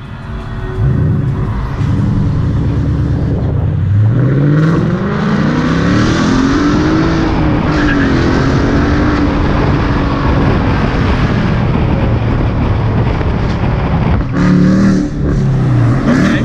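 Car engine under hard acceleration: its pitch climbs steadily for a few seconds, then holds at high revs. It drops and climbs again near the end.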